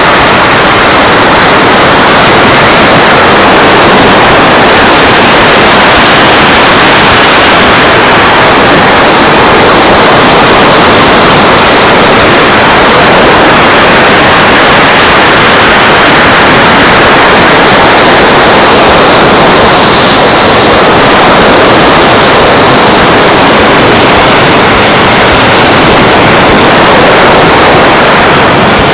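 Beach wind and surf: a loud, steady rushing noise held close to full recording level, with no distinct events.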